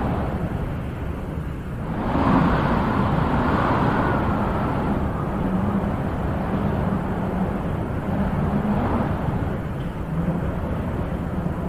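Wind blowing in gusts, a stronger gust swelling about two seconds in and then slowly dying back.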